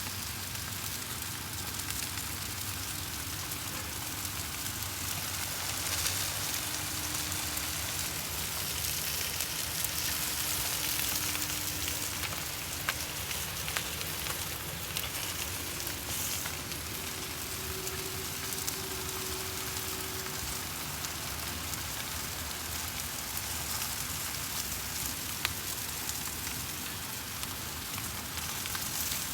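Food sizzling on an outdoor barbecue grill: a steady hiss with a few scattered sharp pops.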